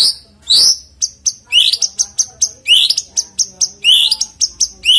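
White-rumped shama (murai batu) singing: a fast, loud run of sharp upward-sweeping whistles mixed with quick clicking, chattering notes.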